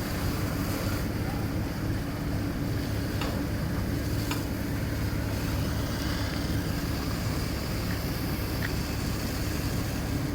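A large vehicle engine running steadily, a low even hum, with wind noise on the microphone and a few faint ticks.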